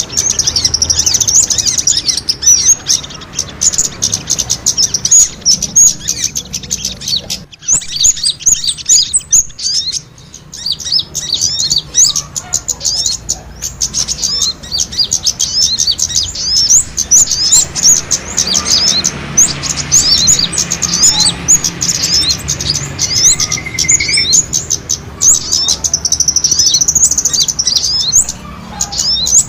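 Bird-lure recording of many small birds chirping in a dense, rapid, high-pitched chatter, the agitated calls of small birds fighting, used to draw wild birds in. The chatter thins briefly about a third of the way in, and a short rising whistle sounds past the middle.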